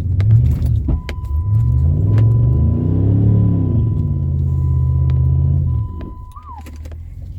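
Jeep Commander's engine revving hard under load in deep snow, its pitch climbing and then falling back before easing off near six seconds in. A faint steady high tone runs alongside it.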